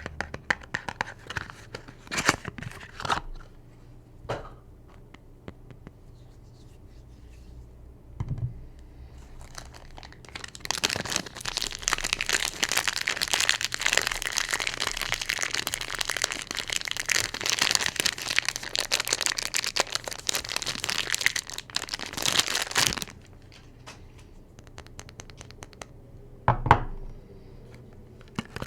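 Soap wrapping being torn open and crinkled in one long stretch of dense crackling, with a few light taps before it and a single knock near the end.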